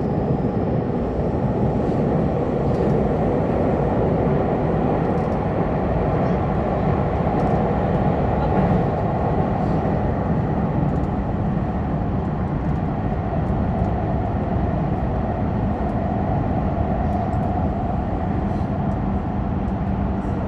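Subway train running at speed through a tunnel, heard from inside the front car: a steady rumble of wheels on rail.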